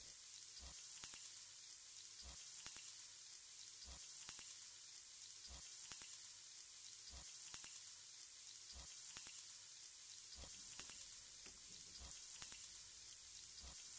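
Chicken pieces frying in oil in a pot: a faint steady sizzle with occasional small pops.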